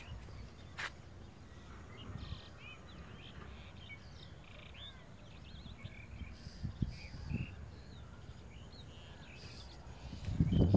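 Small birds chirping and calling over and over, over a steady low outdoor rumble. A louder low rush comes in near the end.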